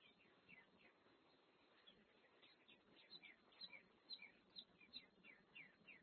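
Faint chirping of small songbirds: many short, quick falling chirps, coming thicker and a little louder in the second half, over a low hiss from the doorbell camera's microphone.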